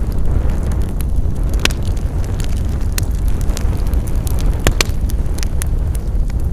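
Wood fire crackling: a steady low rumble of the flames with irregular sharp pops and snaps, two of them louder than the rest.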